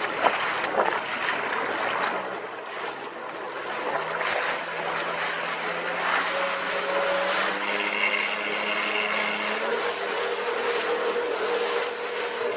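Jet ski engine running under way, its pitch climbing slowly, over the rush and splash of water against the hull.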